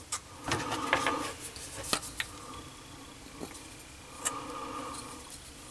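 Scattered light clicks and taps from sink drain fittings and a pipe sealant container being handled while sealant is put on the threads.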